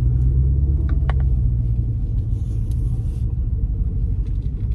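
Straight-piped 6.4-litre 392 HEMI V8 of a 2012 Dodge Charger SRT8, its exhaust giving a steady deep rumble while the car is driven.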